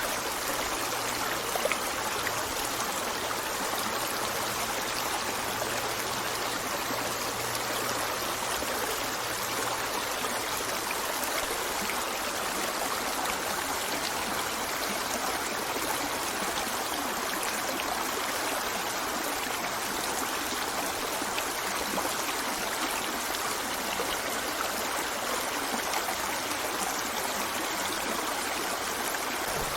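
River water flowing steadily over rocks, an even rushing with trickling and gurgling.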